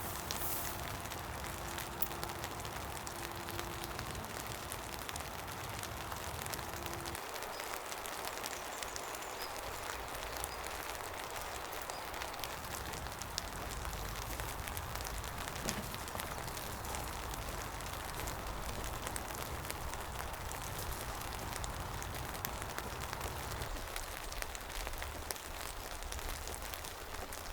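Steady rain falling, with many small sharp drop hits scattered through it.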